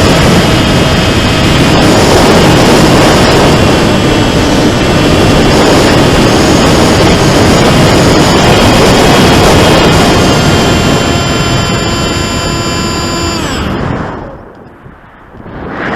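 Rambler-X FPV flying wing in flight, heard from its onboard camera: heavy wind rushing over the microphone with the whine of its electric motor and propeller. A few seconds before the end the whine falls in pitch as the throttle is cut, the sound drops away sharply, then the wind rush builds again.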